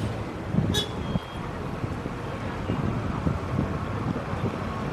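City street ambience: a steady hum of traffic with faint voices. A brief sharp click a little under a second in.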